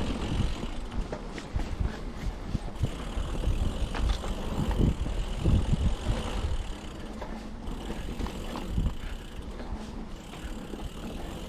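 Mountain bike rolling down a dirt singletrack: tyres crunching over the trail with a continuous low rumble and scattered small knocks and rattles from the bike.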